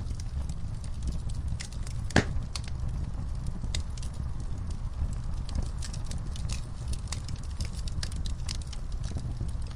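Wood fire burning in a fireplace: a steady low rumble of flames with irregular sharp crackles and pops, one much louder pop about two seconds in.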